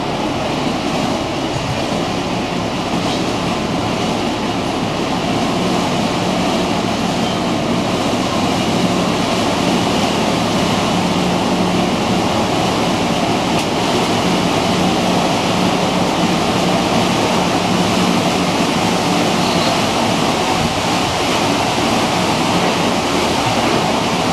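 A car ferry under way: its engine drones steadily with a low hum, under a constant rushing of water.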